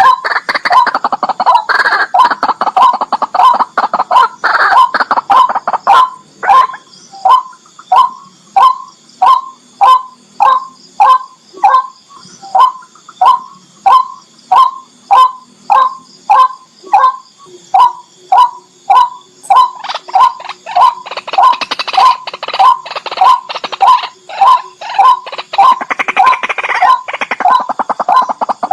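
Barred rail (tikling) calling: a loud, long series of short repeated notes at about two a second, busier and more ragged in the first few seconds and again near the end.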